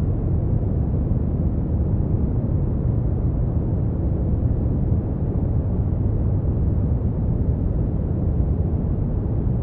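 Brown noise: a steady, deep rumbling hiss, strongest in the low end and dull in the highs, with no change or events.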